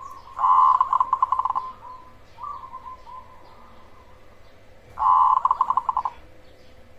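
Cemani zebra dove (perkutut) singing: two loud phrases of rapid, stuttering coos, each about a second long, one near the start and one about five seconds in. Softer single coos come between them.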